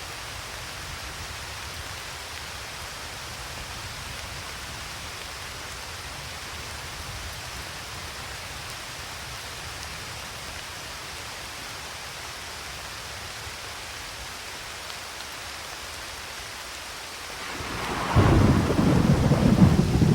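Steady rain falling, then about 18 seconds in a loud crack of thunder breaks into a crackling, rumbling roll that carries on.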